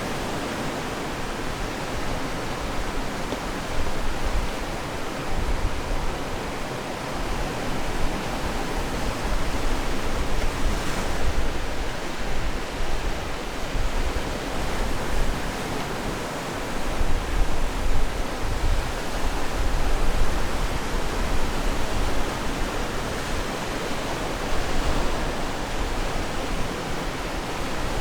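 Atlantic waves breaking and washing on the shore: a continuous rushing noise that swells and eases every few seconds over a low rumble.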